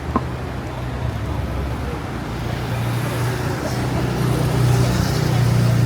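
City street traffic: a motor vehicle's low engine hum grows louder over the last few seconds as it nears, with one sharp click shortly after the start.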